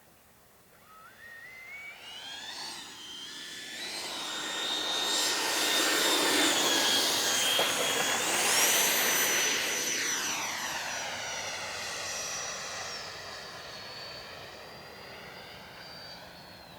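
Freewing J-10 RC jet's 90 mm electric ducted fan whining in a pass-by. The whine grows louder as the jet approaches, steps up in pitch about halfway through, then fades away.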